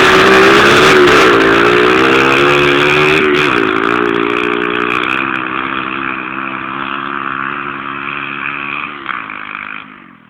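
Dirt bike engine revving hard as the bike rides away, its pitch dropping and climbing again a few times as it shifts up through the gears. The sound fades steadily as it goes off into the distance, then falls away sharply near the end.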